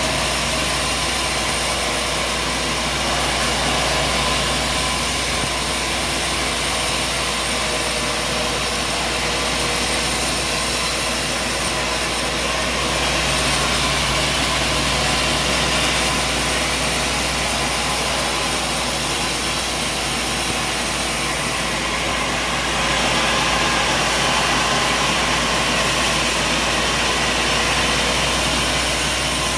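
Heavy machinery running steadily, a constant low hum under a broad whirring noise that barely changes throughout.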